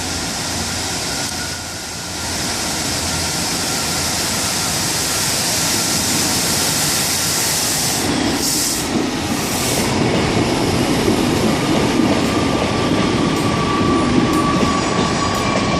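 Three-coach diesel multiple unit, a Class 150 Sprinter coupled to a Class 153, moving at the platform: steady diesel engine and wheel-on-rail noise with a thin steady whine, growing gradually louder, and two short hisses of air about eight seconds in.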